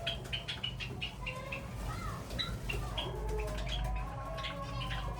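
A captive colony of Java sparrows and doves calling: many short high chirps, joined from about halfway by lower, drawn-out wavering calls.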